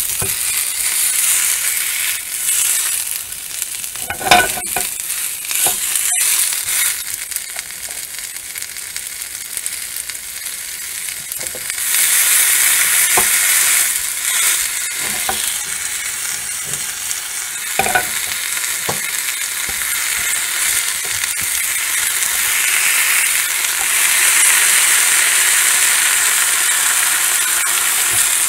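Fries, onion rings and a burger bun sizzling in a frying pan, the hiss growing louder about twelve seconds in, with a few knocks of food and utensil on the pan, the loudest about four seconds in.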